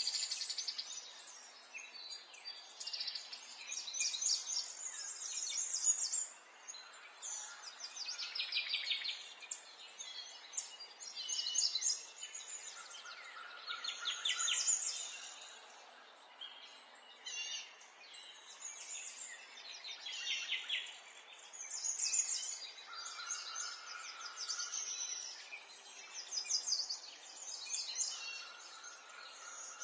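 Songbirds singing, a new phrase every few seconds, some of them quick trills that fall in pitch, with a few short steady whistled notes, over a faint steady hiss.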